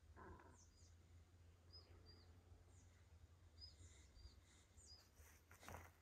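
Faint, thin, high bird chirps, short single notes about every second, over a quiet forest background. Rustling footsteps on the forest floor start near the end.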